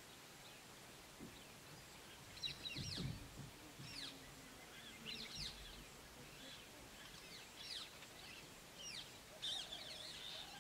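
Faint bird calls: short, high chirps that sweep downward, repeated about every second from a couple of seconds in, over a soft steady background hiss.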